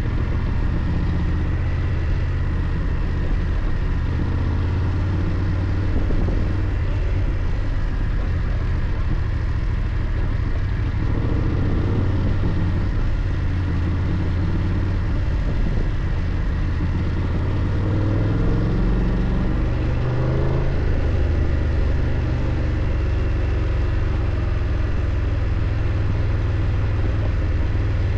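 BMW F 800 GS parallel-twin engine running steadily while the motorcycle is ridden, under a steady rushing noise. The engine pitch shifts about a third of the way in and again about two-thirds of the way in as the revs change.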